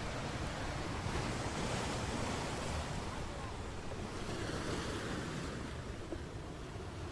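Sea surf: waves washing ashore in a steady rush that swells a second or so in and eases off near the end.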